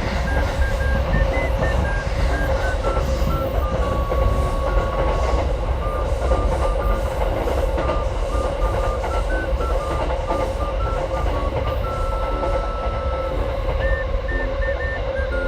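Passenger train running: a steady rumble with a constant hum, and a light melody of background music playing over it.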